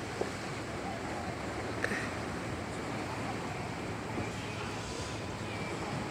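Steady noise of a boat under way: a low engine rumble mixed with wind and water, with a couple of brief clicks.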